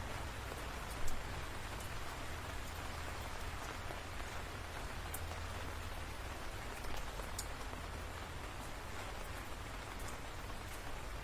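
Steady rain falling, with scattered sharper drops standing out now and then, one a little louder about a second in.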